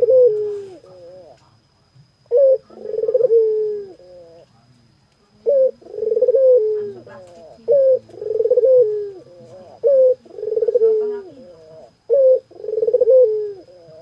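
Barbary dove (burung puter) cooing vigorously: about six calls, one every two seconds or so, each a short clipped note followed by a longer coo that falls in pitch.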